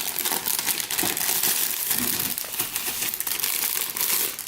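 Plastic packaging crinkling and rustling continuously as it is handled, a dense crackle that eases off near the end.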